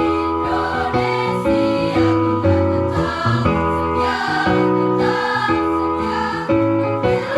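Student choir singing in harmony, holding sustained chords that change about every second.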